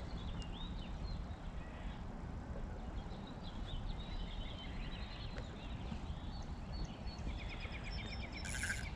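Birds chirping in short, scattered calls, with a fast run of repeated notes near the end, over a steady low background rumble.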